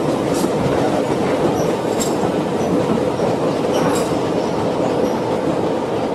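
Heritage railway passenger carriages rolling past over jointed track, a steady rail rumble with clickety-clack. A few sharp wheel clicks stand out, about two seconds apart.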